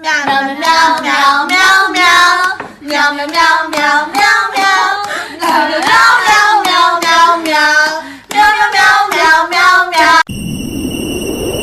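A high-pitched voice singing a tune in short phrases. About ten seconds in it cuts off suddenly and gives way to a steady hiss with thin high tones.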